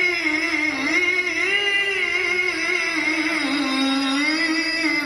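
A high male voice reciting the Quran in melodic tilawah style, holding one long note. The pitch wavers and slides in ornamented turns, and the note ends about five seconds in.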